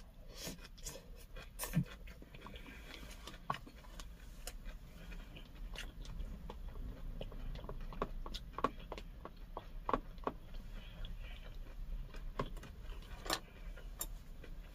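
Close-miked chewing of pork bulgogi wrapped in cabbage leaves, with many small irregular mouth clicks and wet smacks.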